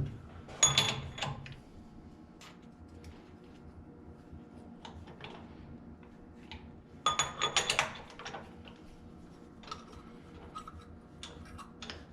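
Metal-on-metal clinks and clanks from adjusting the jaws of a lathe chuck by hand, in two ringing clusters about a second in and about seven seconds in, with light scattered ticks between.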